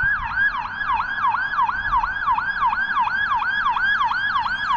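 An emergency vehicle's siren in a fast yelp, its pitch sweeping down and back up about four to five times a second.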